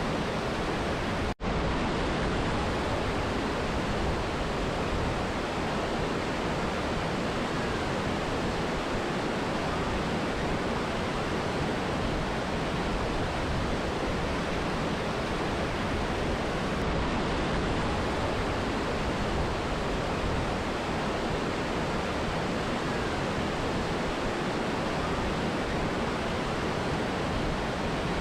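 Steady rush of a mountain river and waterfall, an even, unbroken wash of water noise. It cuts out for a split second about a second and a half in, then carries on unchanged.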